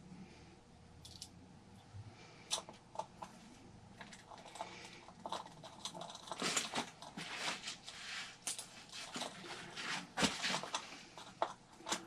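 Scattered light clicks, taps and rustles of small parts being handled while working on an RC truck, busier in the second half.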